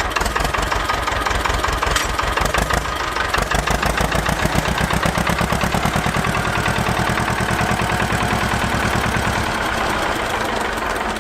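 Small motor of a miniature tractor running steadily with a fast, even chatter.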